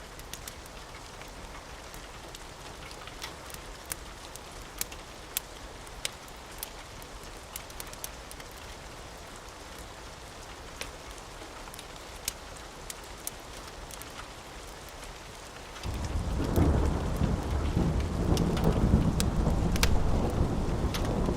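Steady rain hiss with scattered sharp crackles and pops from a wood fire. About three-quarters of the way through, a loud, deep rolling rumble of thunder breaks in suddenly and keeps going.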